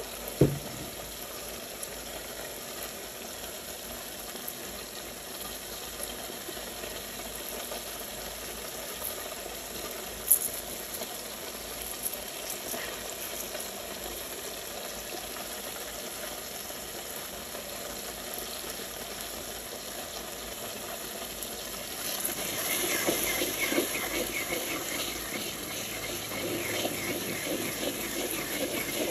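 Food sizzling and bubbling in a cooking pot, with a sharp knock just after the start and another about ten seconds in. From about twenty-two seconds in it gets louder and more crackly.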